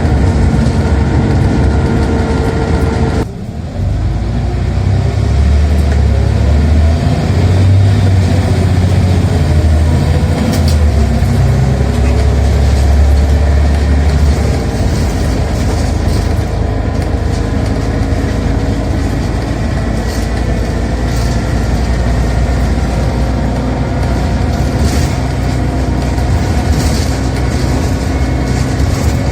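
Scania OmniCity single-deck bus engine and automatic gearbox heard from inside the bus. The sound drops briefly about three seconds in, then the engine pulls hard with its pitch rising as the bus accelerates. After about fifteen seconds it settles to a lighter, steadier run.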